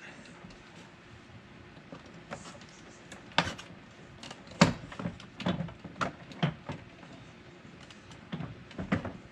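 Irregular sharp clicks and knocks of hard plastic parts and a hand tool as a pickup door handle assembly is pried apart. There are about nine in all, scattered, with the loudest about halfway through.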